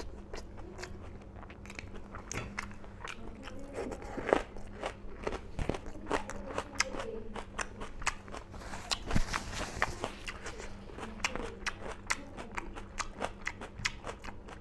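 A man chewing a mouthful of smoked pork curry and rice close to a clip-on microphone: crunching with many wet mouth clicks and smacks, coming thicker in the second half.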